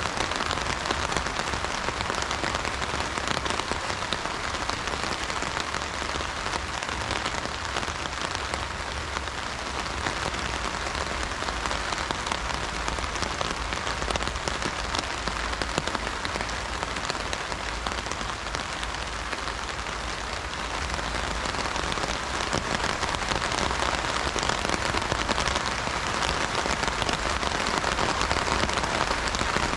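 Heavy rain drumming steadily on an umbrella, a dense patter of drops, a little louder near the end.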